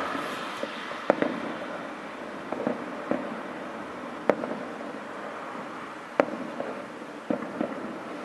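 Fireworks display: shells bursting in scattered sharp bangs at irregular intervals, the sharpest about four seconds in and again about six seconds in, over a steady background hiss.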